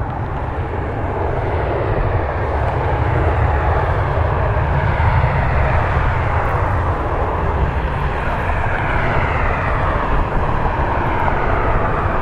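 Business jet taking off with its jet engines at takeoff power: a steady rush that grows a little louder over the first few seconds, with whining tones gliding slowly down in pitch in the second half.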